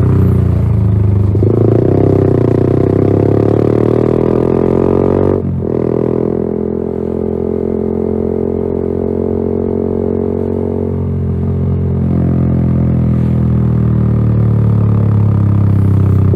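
Yamaha XSR 155's single-cylinder engine running through a LeoVince GP Corsa Evo aftermarket exhaust. The note holds a steady pitch, with a brief dip about five and a half seconds in and a slow rise near the end.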